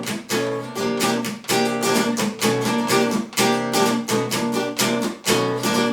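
Acoustic guitar strumming chords in a steady rhythm, several strums a second, with no singing.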